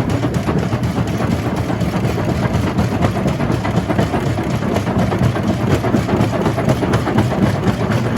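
Jaw crusher running and crushing rock: a steady, heavy mechanical rumble laced with a dense, continuous clatter of stone being broken.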